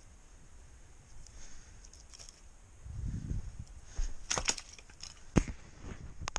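Dry twigs and leaves crackling as they are handled, with a handling rumble about three seconds in and a few sharp snaps from about four seconds on.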